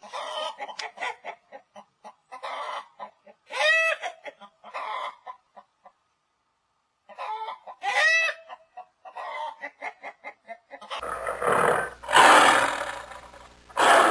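Chicken clucking in quick runs of short notes, each run rising to a louder drawn-out cackle, twice with a pause between. About eleven seconds in it gives way to a loud, breathy, rasping animal sound.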